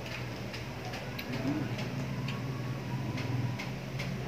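Close-up chewing of crispy fried pork skin and rice: many short, irregular crunching clicks a few tenths of a second apart, over a steady low hum.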